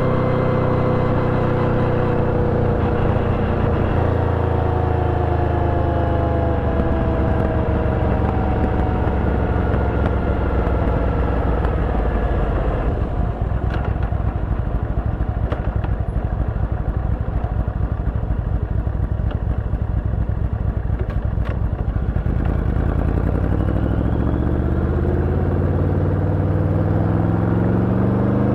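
Yamaha VMAX 1700's V4 engine running through an Akrapovič exhaust with dB-killer while riding. Its pitch falls over the first few seconds as it slows, holds a steady note through the middle, and rises again over the last five seconds or so as it accelerates.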